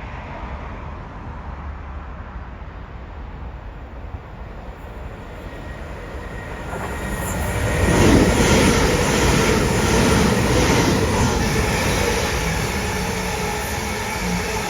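A non-stopping train running through the station platform. Its noise builds from about six seconds in to loud at about eight seconds and stays loud, with a run of wheel clicks over the rails as it passes.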